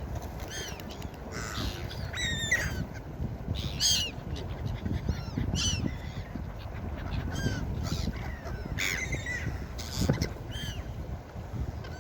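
Gulls calling again and again, short arched cries with a few louder ones about four seconds in and near ten seconds, over a steady low rumble.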